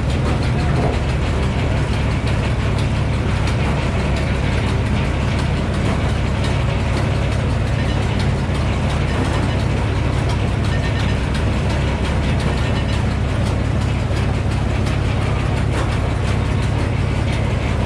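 A sawmill's engine running steadily, with the mill's machinery clattering.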